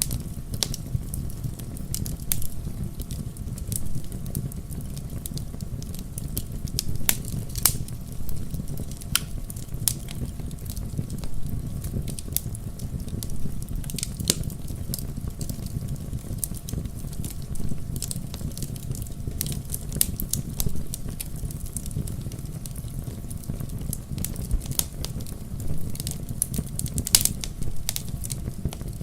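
Wood fire in a fireplace crackling, with a steady low rumble of flames under irregular sharp pops and snaps, a few of them louder.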